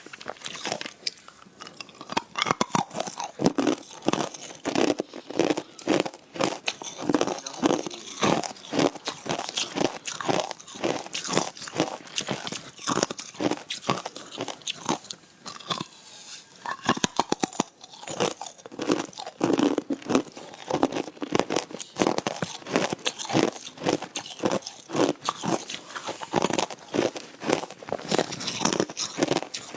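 Hard ice being bitten and chewed close to the microphone: a rapid, irregular run of sharp crunches, a few a second, with a short lull about halfway through.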